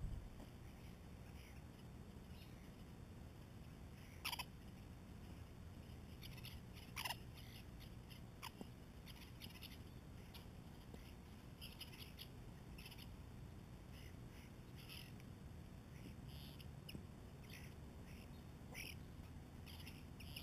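Birds chirping: scattered short, faint high chirps, with a few louder brief calls about four and seven seconds in, over a low steady hum.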